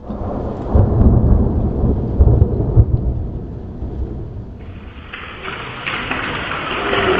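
Thunder rumbling low and unevenly, with several loud peaks in the first few seconds. At about four and a half seconds in, a steady hiss of heavy rain takes over.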